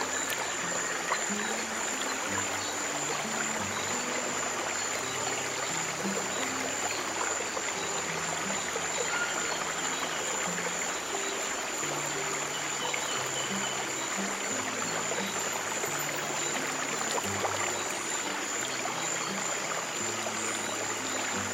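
A stream of water running steadily, with slow, soft low piano notes changing every second or so beneath it. A thin steady high tone sits over it.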